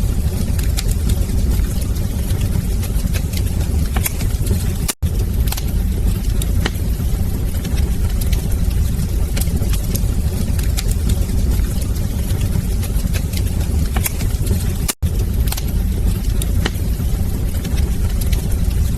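Wood fire burning in a fireplace: a steady low roar with frequent small crackles and pops. The sound drops out completely for an instant twice, about five seconds in and again about ten seconds later.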